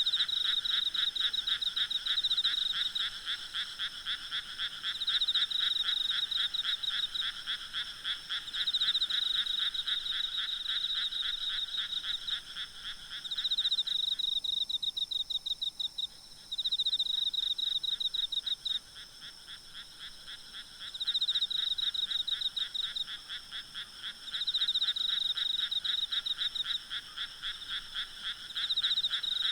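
Night chorus of frogs calling in fast pulsed trills, swelling louder every three or four seconds, over a faint steady high hum of insects. The lower-pitched callers fall silent for a couple of seconds about halfway through.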